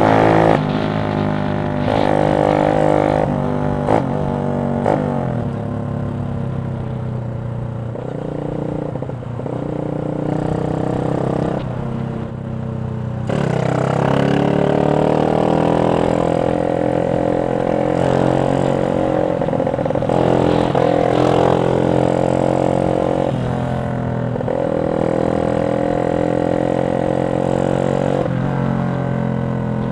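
Yamaha Jupiter MX 135's four-stroke single-cylinder engine breathing through a CLD X Monster aftermarket racing exhaust, revving up and falling back again and again. A few quick rises come in the first seconds, then longer climbs in pitch that drop away, as at gear changes.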